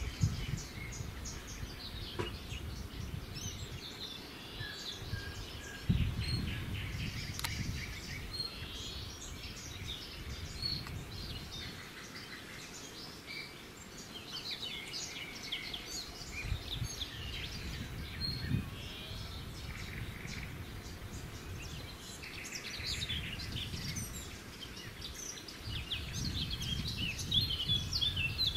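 Small birds chirping and singing, with many short, high calls scattered throughout, over a low rumble that comes and goes.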